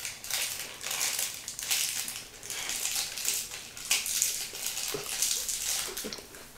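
Crisp wafer snack bar being bitten and chewed close up: a run of irregular crunches that thins out near the end.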